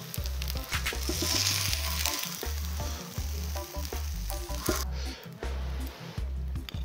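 Fried rice sizzling on a large cast-iron pot-lid griddle while a wooden spatula scrapes and scoops it, with short scraping clicks; the sizzle thins out about two-thirds of the way through. Background music with a steady bass beat underneath.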